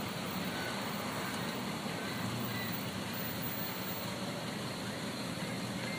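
Steady running noise of a car engine, with no marked change in level.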